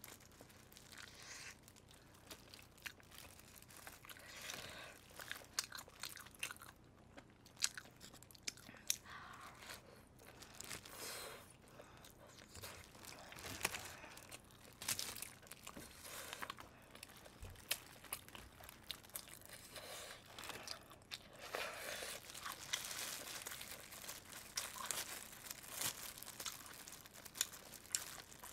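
Faint chewing and biting on grilled chicken, with small irregular crunches, denser in the second half.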